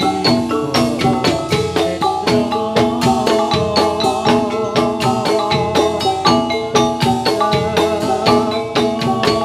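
Javanese gamelan playing jathilan accompaniment: bronze metallophones struck in a quick, even pattern of many pitched notes, with drums beneath.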